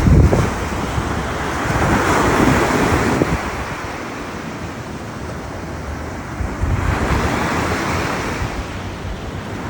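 Ocean surf washing onto a beach, swelling twice as waves break and run up. Gusty wind buffets the microphone with low rumbles, strongest at the very start.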